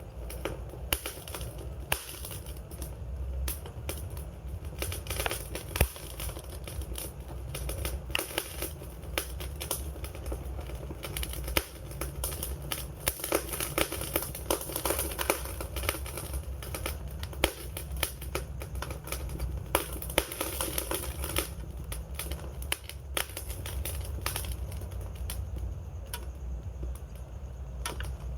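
Wood fire crackling, with dense irregular pops and snaps over a low steady rumble.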